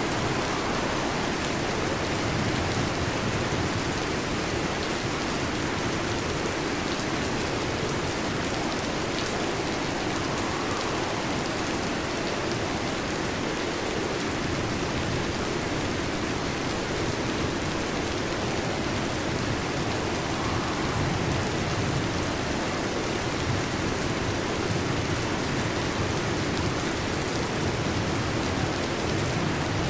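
Heavy rain falling on a metal roof: a steady, dense patter of drops with no let-up.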